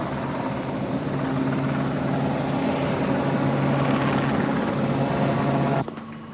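Loud, steady engine drone that swells slightly and cuts off abruptly near the end.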